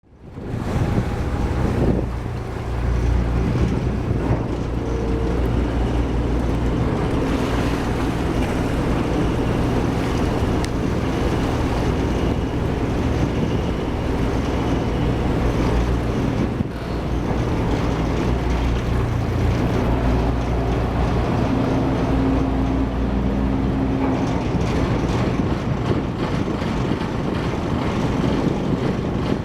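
High-speed passenger boat's engines running with a steady low drone as the boat pulls away from the pier.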